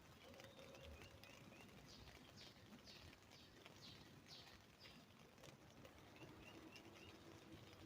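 Faint northern cardinal song: a run of about six clear, down-slurred whistled notes, with short series of thinner chirps just before and after.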